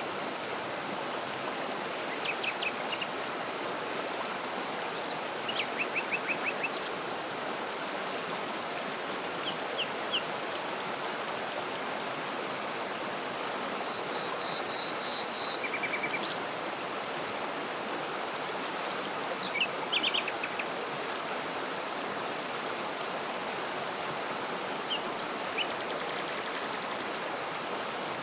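Steady rush of falling water from a waterfall, with small birds chirping over it in short runs of quick, high notes every few seconds.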